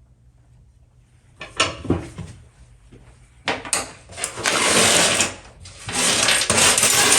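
Steel tube scraping and rattling against metal in several rough bursts, the longest about a second each, typical of a tube being turned against a scriber or on the workbench.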